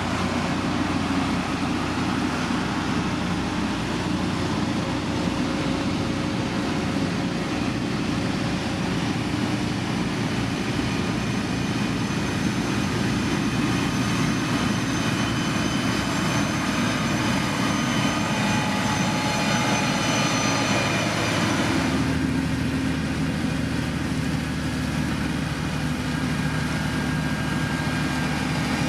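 Diesel engine of heavy road-building machinery running steadily, its note changing abruptly about 22 seconds in.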